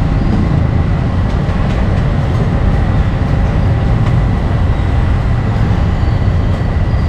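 Steady low rumble of street background noise.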